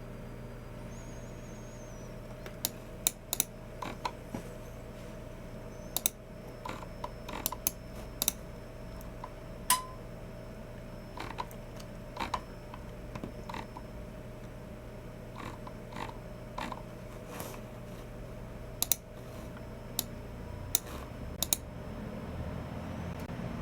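Scattered, irregular keystrokes and clicks from a Logitech MX Keys Mini low-profile keyboard and a Logitech G304 mouse, over a steady low hum.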